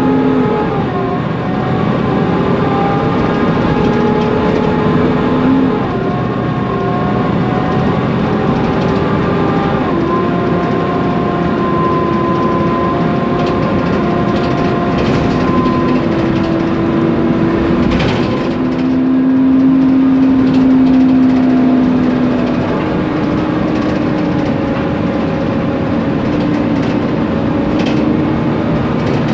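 Inside a Mercedes-Benz Conecto NGT city bus on the move: its M936G natural-gas engine and a noisy cooling fan run together as steady whining tones that step up and down in pitch several times as speed and gears change. There is one sharp knock about 18 seconds in.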